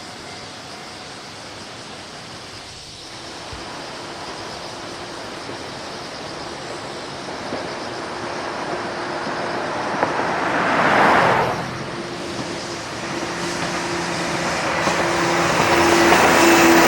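A 103 series electric commuter train approaching a level crossing, its running noise and steady hum growing louder toward the end. About ten seconds in, a road vehicle passes close by in a brief loud swell.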